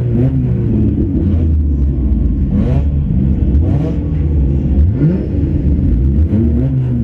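Car engine idling inside a stripped-out race car's cabin, with the throttle blipped so the revs rise briefly three times, about two and a half, four and five seconds in.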